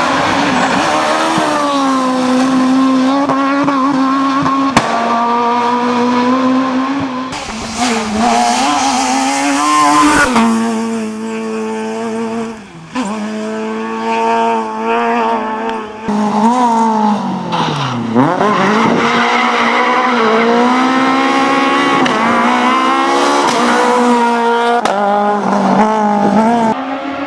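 Super 1600 rally cars driven flat out, their high-revving 1.6-litre four-cylinder engines climbing and dropping in pitch through rapid gear changes, in several short passes cut one after another. About 18 seconds in, one engine note falls steeply and then climbs again.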